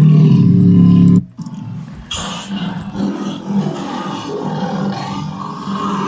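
A tiger roaring: one loud, low roar through the first second or so that cuts off abruptly, then a quieter stretch of mixed sound.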